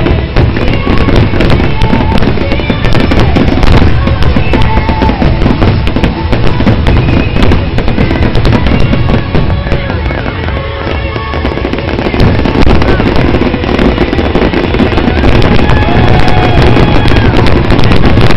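Loud, dense barrage of fireworks bursts and crackle, with music playing over loudspeakers; it eases slightly about ten seconds in, then builds again.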